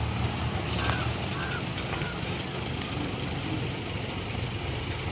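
Engine of heavy machinery such as a crane or truck running steadily as a low rumble, with faint voices in the background.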